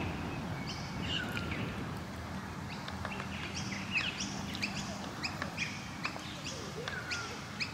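Birds chirping and calling in the trees: many short, repeated chirps and a few falling whistles.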